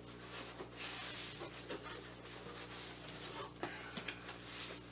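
Cardboard box and its packing being handled and pulled open: soft rubbing and scraping with a few light knocks, loudest about a second in.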